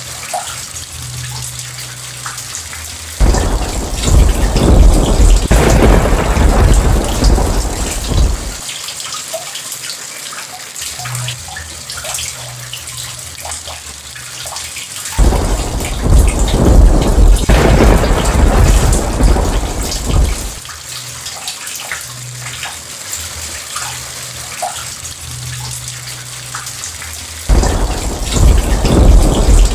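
Steady rain hissing, with thunder rumbling three times: each rumble starts suddenly, lasts about five seconds and comes about every twelve seconds.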